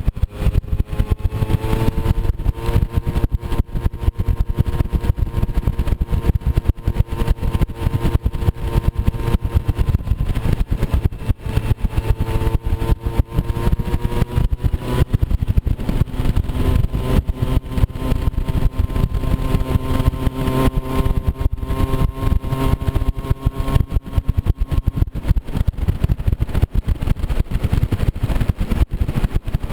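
Moped scooter's small engine running while riding a rough trail, its pitch drifting up and down with the throttle, over a heavy low rumble. The engine tone fades out a few seconds before the end.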